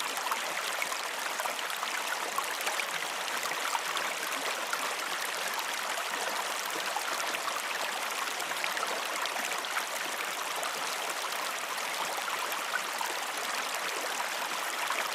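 Steady running water, an even rushing sound with fine splashes.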